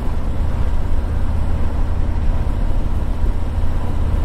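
Harley-Davidson Tri Glide trike's V-twin engine running steadily under way, a constant low rumble mixed with wind and road noise on the moving microphone.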